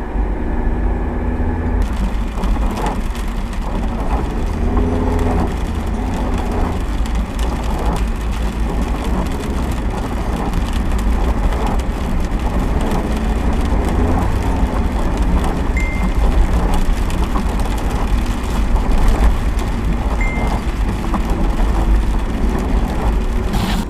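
Car driving through heavy rain: a steady low road-and-engine rumble under a loud hiss of rain on the car. Two short high beeps sound in the last third.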